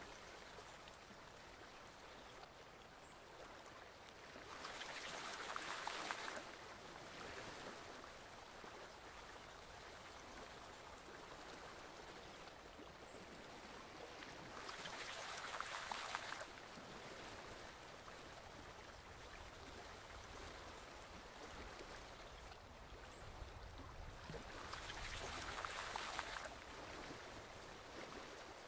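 Forest stream flowing, a steady rush of water that swells louder three times, each swell lasting about two seconds and about ten seconds apart.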